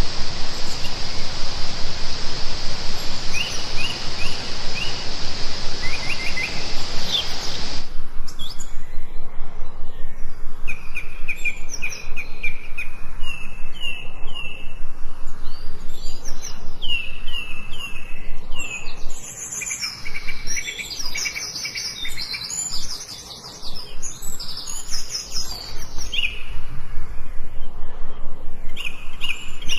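Forest birds chirping and singing, several at once, including a run of repeated down-slurred whistled notes. For the first several seconds the song sits under a dense steady hiss with a high buzzing band, which cuts off abruptly about eight seconds in.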